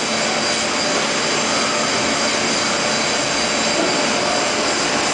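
An end grinder running steadily, giving a constant even rushing noise with a few faint steady tones in it.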